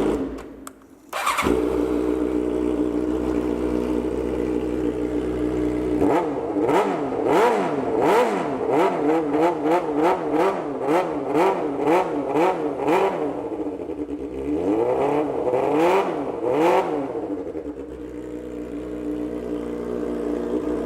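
2005 Suzuki GSX-R600 inline-four engine idling, then revved in a quick run of throttle blips from about six seconds in. It gives three more revs near the middle and settles back to a steady idle.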